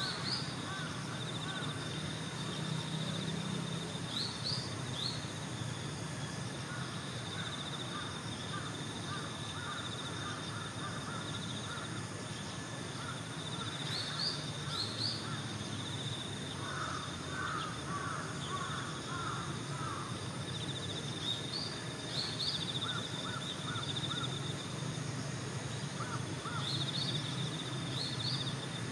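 Outdoor birds and insects: crows calling, short high rising chirps in pairs every few seconds, and a steady insect trill, over a low hum.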